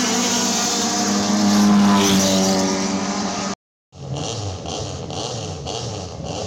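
Race car engine running hard at high revs; the revs climb briefly, then drop, before the sound cuts off abruptly. After a moment of silence a different, rhythmic sound starts.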